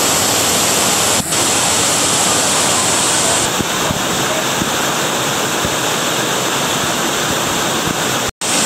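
Loud, steady rush of falling water from a waterfall, with a brief cut to silence near the end.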